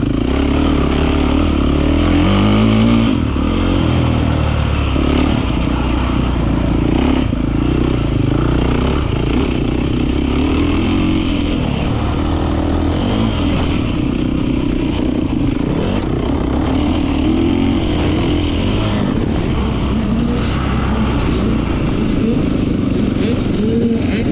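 Beta 450 RX motocross bike's four-stroke single-cylinder engine running hard, its pitch repeatedly rising and falling as the rider revs up, shifts and rolls off around the track.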